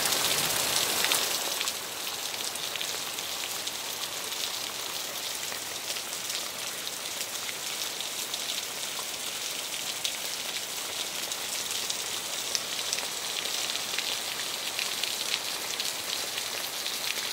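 Steady rain falling on banana leaves and tree foliage: a dense, even hiss of drops, a little louder for the first two seconds.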